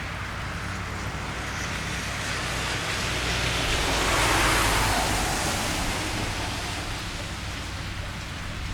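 A car passing on a wet street: its tyre hiss on the wet road swells to a peak about halfway through and fades away, over steady rain.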